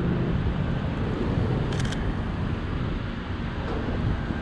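A short rapid burst of camera shutter clicks from a Sony A7R III about two seconds in, over a steady rumble of city street traffic.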